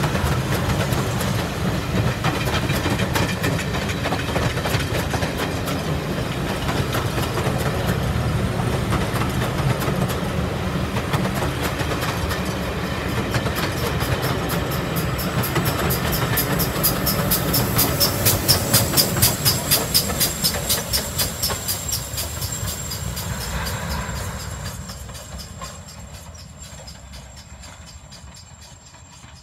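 Passenger coaches of a heritage railway train rolling past close by, wheels rumbling on the track with a quick, even clickety-clack over the rail joints towards the middle. The sound then fades steadily as the train moves off into the distance.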